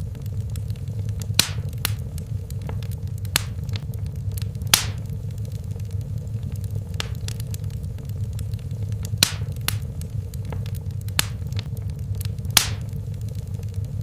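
Wood fire in a fireplace crackling: sharp, irregular pops and snaps, about half a dozen of them loud, over a steady low rumble of the burning fire.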